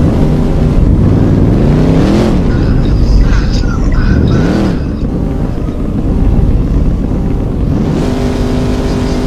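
Car engines idling and being revved: the pitch climbs and drops back twice, peaking about two seconds and four and a half seconds in, then settles into a steady idle near the end.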